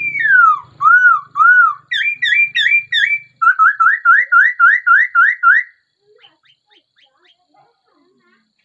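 Laughingthrush singing a loud whistled phrase: a falling slur, two arched notes, a quick run of repeated notes, then a fast series of about eight rising notes; the song stops about two-thirds of the way through.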